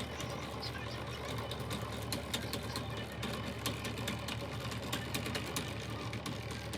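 A workshop machine running with a steady low hum, with many sharp, irregular clicks and ticks over it.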